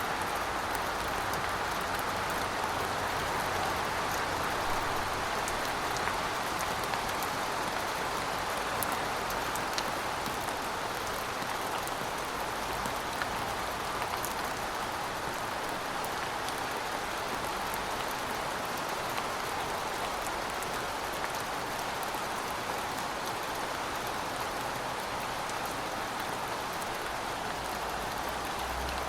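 Steady rainfall, a dense even patter of raindrops on surfaces with scattered individual drop ticks.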